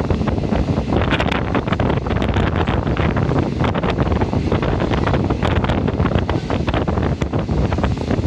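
Train in motion heard from inside the passenger car: steady wind noise buffeting the microphone over the rumble of the running train, with frequent irregular clicks and rattles from the carriage and wheels.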